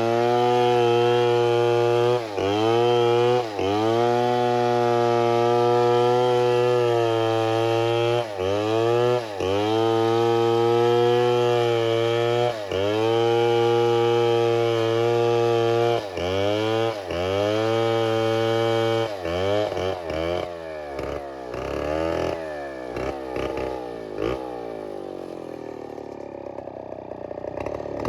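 Two-stroke chainsaw running at high revs, with the throttle let off briefly every second or two and opened up again. For the last several seconds it runs quieter and more unevenly at lower revs.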